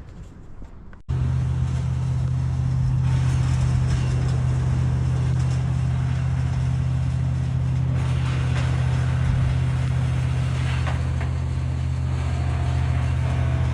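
An engine running steadily at a constant speed, a low, even drone that starts abruptly about a second in.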